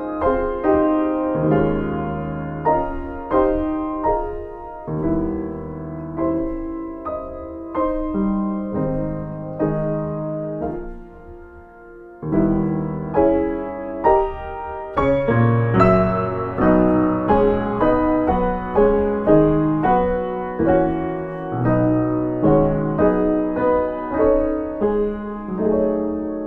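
Solo piano playing a flowing prelude. The playing softens and thins for a moment near the middle, then comes back louder and fuller with a deep bass note and denser chords.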